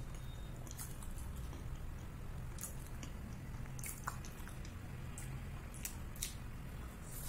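A person chewing and biting soft, syrup-soaked gulab jamun close to the microphone: irregular small mouth clicks and smacks. A steady low hum runs underneath.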